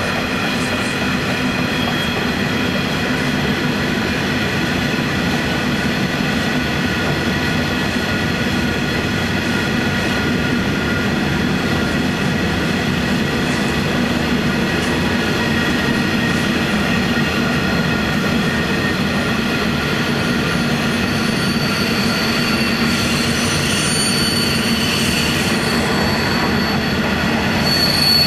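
Iron ore train wagons rolling steadily past, a continuous rumble with wheels squealing on several high steady pitches; a higher squeal joins about two-thirds of the way through and grows louder near the end.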